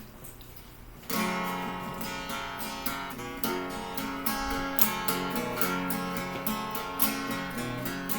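Acoustic guitar strumming the instrumental intro of a song, starting suddenly about a second in with a steady rhythm of strokes.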